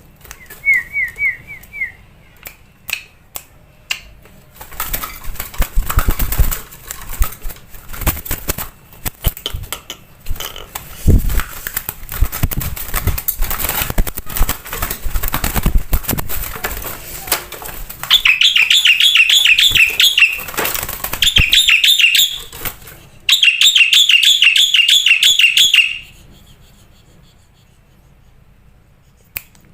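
A black-winged myna singing: harsh, rasping, chattering calls give way after about eighteen seconds to loud, rapid trills of repeated whistled notes, broken by short pauses, which stop a few seconds before the end.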